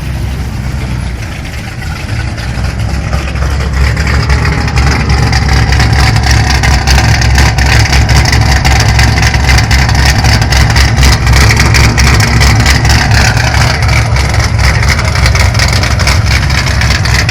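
Car engine running loudly with a dense low rumble, growing louder over the first few seconds and then holding steady.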